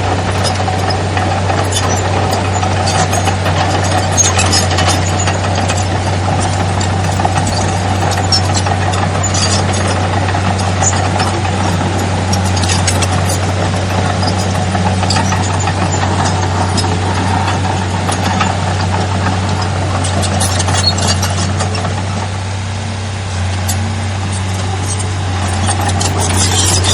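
Heavy diesel earthmoving machinery running steadily under load, with scattered metallic clanks and rattles; the engine eases off briefly near the end and then picks up again.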